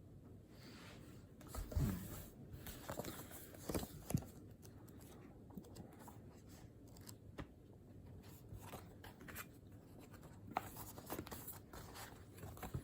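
Faint desk noises: a pen scratching on paper in short strokes, with light clicks and rustles, in two busier spells early and late.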